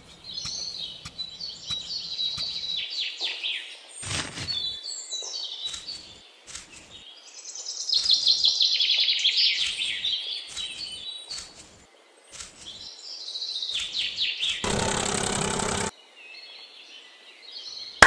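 Small birds chirping and trilling in quick repeated runs of high notes. Near the end a louder, fuller sound cuts in for about a second.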